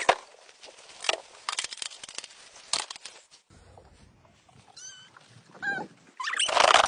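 Scattered crunching steps and clicks, with two short, high, pitched calls from an animal about five seconds in, then a louder burst of crunching or rustling near the end.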